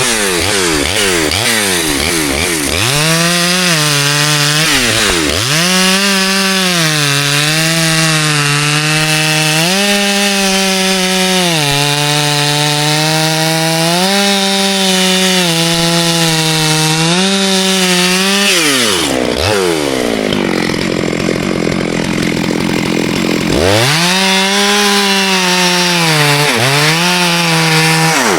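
Two-stroke chainsaw at high revs cutting through ash wood, its pitch sagging and recovering again and again as the chain loads in the cut. The revs drop away briefly twice in the first few seconds, and for a few seconds about two-thirds of the way through, before it revs back up.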